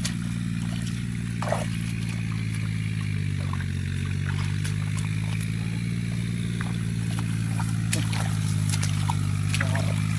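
A small engine running steadily, its pitch sagging briefly about three seconds in, with water trickling and scattered light splashes.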